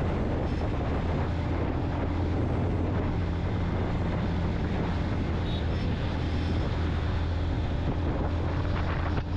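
Yamaha FZ-X's 149 cc single-cylinder engine running steadily while the motorcycle is ridden, with wind noise on the microphone.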